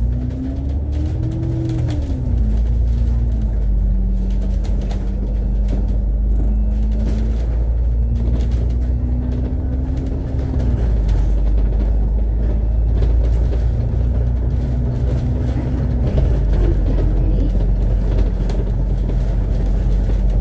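Alexander Dennis Enviro500 MMC double-decker bus driving, heard from inside. A low steady rumble runs under a whine that rises and falls in the first two seconds, then steps down in pitch about 2, 11 and 16 seconds in.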